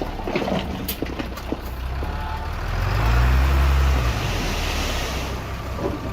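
Heavy diesel engine running steadily, swelling louder for about a second near the middle, with a few short knocks in the first second or so.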